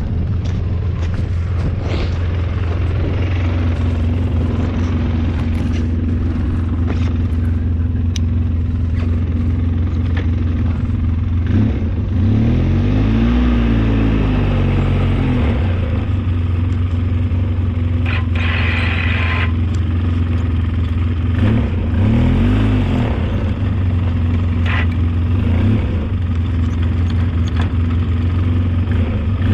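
Engine of an old snowplow vehicle running steadily, rising and falling in pitch about twelve and twenty-two seconds in and again near the end, with scattered knocks.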